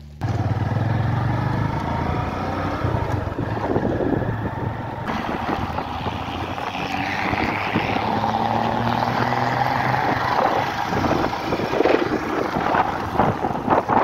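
A vehicle running, with low steady engine tones that fade out about ten seconds in, and wind buffeting the microphone throughout.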